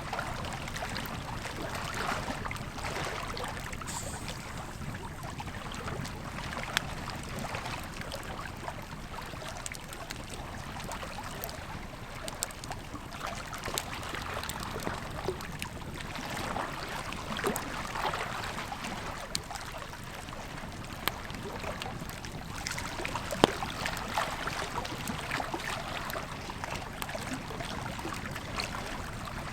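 Campfire crackling, with a sharp pop now and then, over the steady rush of a flowing river.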